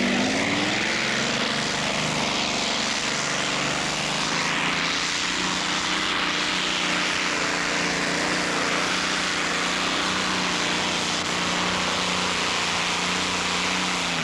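Pulling tractor's engine running flat out under load. The pitch climbs in the first second, then holds steady while the tractor pulls hard, and the note stops suddenly at the very end.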